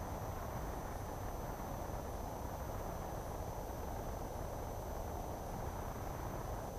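Steady, low cabin noise of a single-engine light aircraft during touchdown and ground roll on a touch-and-go, with a faint thin high tone throughout.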